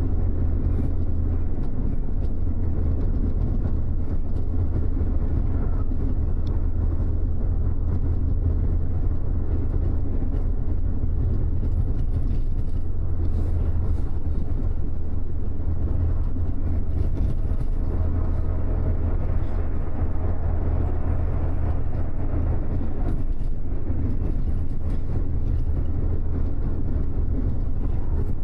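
Double-decker bus in motion, heard from inside the cabin: a steady low engine drone with road and tyre noise, unchanging throughout.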